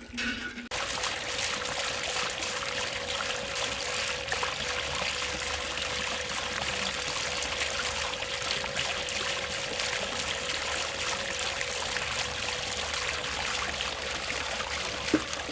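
Water running and trickling steadily, starting about a second in, with a faint steady hum underneath.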